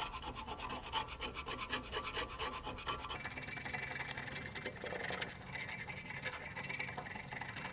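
Knife blade scraping old gasket material off a tractor's metal hydraulic filter cover plate in rapid short strokes, turning to a more continuous scraping about three seconds in. The old gasket is being cleared so that a new one will seal.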